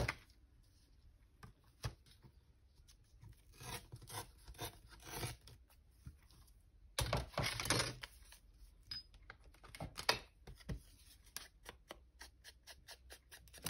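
Paper being trimmed and handled: short bursts of rustling and scraping, then a quick run of small clicks near the end.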